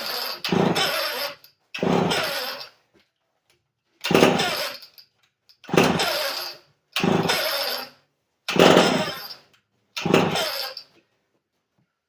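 Vintage Lombard American Lincoln two-stroke chainsaw being pull-started about seven times. Each pull spins the engine over for about a second, and it does not catch and run.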